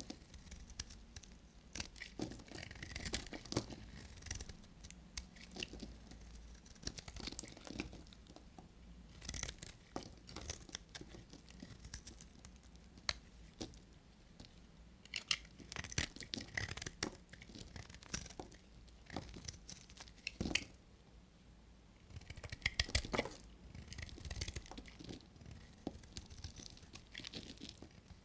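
Blade cutting through bars of dry soap: crisp crackling and scraping in bursts of cuts, with short pauses between them.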